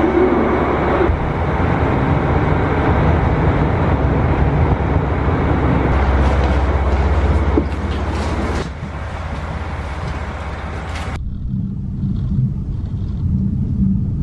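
Railway platform noise with a train's steady low hum. About 11 seconds in, it cuts to the low rumble of a moving train heard from inside the carriage.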